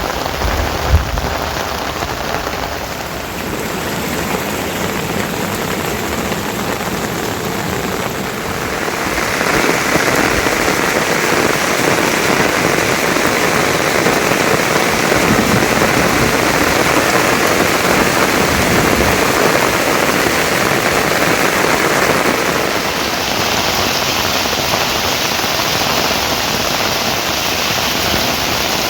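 Heavy rain falling steadily, a dense hiss that grows louder about nine seconds in. A brief low thump sounds about a second in.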